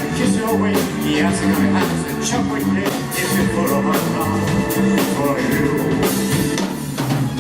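Live band playing a pop-rock song: a drum kit keeps a steady beat under bass and guitar, with a voice singing over them.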